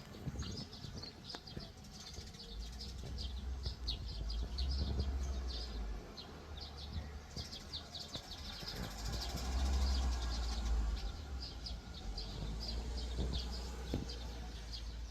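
Songbirds chirping and twittering continuously, a quick run of short high calls, over a low rumble that swells twice, about four seconds in and again around nine to eleven seconds in.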